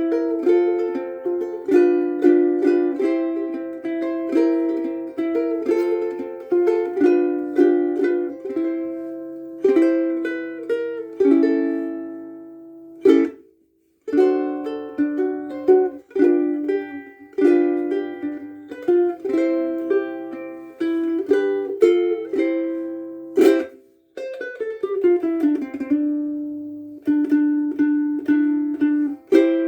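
Kiwaya KKS2 soprano ukulele of Kauri pine with Loprinzi fluorocarbon strings, fingerpicked in a slow melody of single notes and light chords. It breaks off briefly twice, each time right after a strummed chord, then picks up again.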